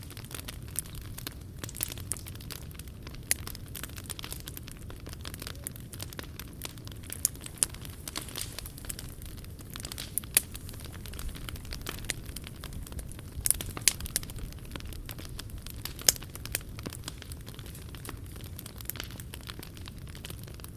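Wood fire burning in a POMOLY T-BRICK Ultra camp stove, crackling with irregular sharp pops over a low steady rumble. The loudest pops come about ten seconds in and again around sixteen seconds.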